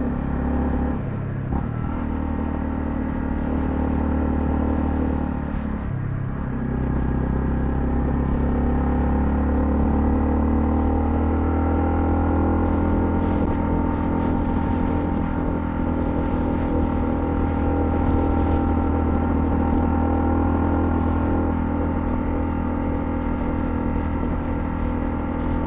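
Honda CL250's single-cylinder engine running under way, with two short breaks in its pitch, about a second in and around six seconds in, like gear changes, then pulling steadily.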